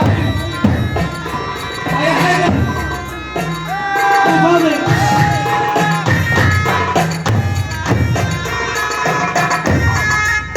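Arab folk wedding music: a droning reed wind instrument playing a melody over regular drum beats.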